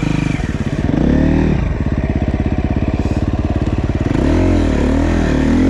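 Dirt bike engine running under riding load, its revs rising and falling: one swell about a second in, then several quick up-and-down changes from about four seconds in, as with throttle and gear changes on a trail.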